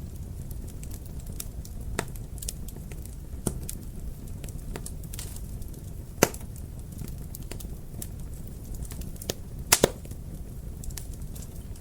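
Wood fire crackling in a fireplace: a steady low rumble of flames under scattered sharp pops and snaps, with the loudest pop about halfway through and a quick double pop near the end.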